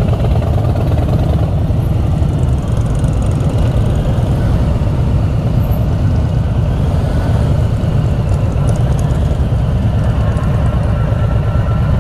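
Motorcycle engine running low and steady as the bike rides on at low speed.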